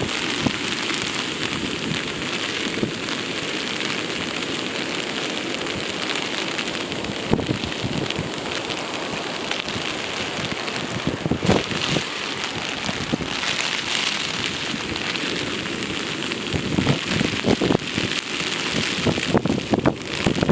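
Hurricane storm noise: a steady hiss of wind-driven rain with wind buffeting the phone's microphone, growing gustier and rougher near the end.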